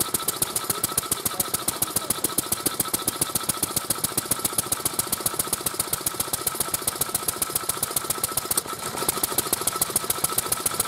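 Vintage Japanese stationary engine (hatsudōki) running, its exhaust beating out a fast, even knock, with a steady high tone underneath.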